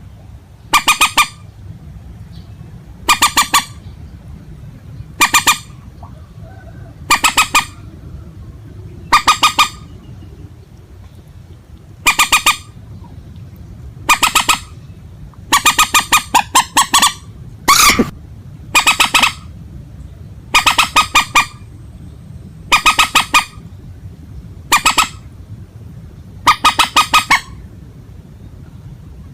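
Recorded calls of a rail-family marsh bird: short, harsh, nasal honks repeated about every two seconds, some in quick pairs, over a steady low hum.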